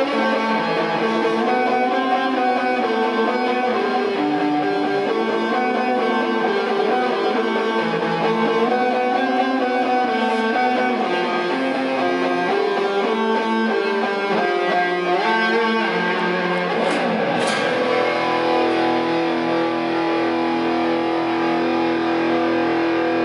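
Rock music led by electric guitars playing shifting melodic lines, changing about 18 seconds in to long held notes.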